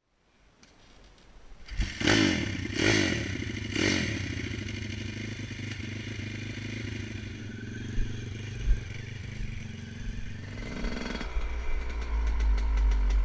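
Dirt bike engine blipped three times in quick succession, then running steadily. Near the end a deep low rumble comes up.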